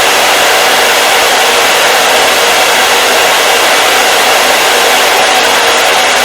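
Hair dryer blowing steadily: an even, unbroken whoosh of air with a faint steady motor hum underneath.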